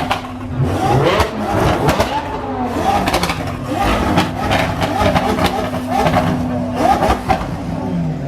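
Car engine running with a steady hum, amid the chatter of people's voices and scattered clicks and knocks.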